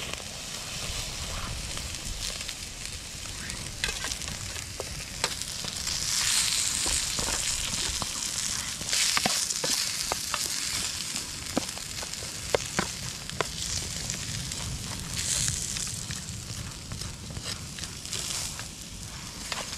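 Leeks and shallots sizzling in olive oil in a titanium pan over a wood fire, stirred with a wooden spoon. The sizzle grows louder in a few stretches as the food is turned, with light sharp clicks of the spoon against the pan.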